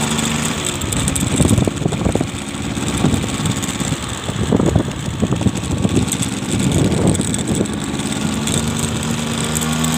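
A vehicle's engine running steadily while driving, with irregular gusts of wind buffeting the microphone.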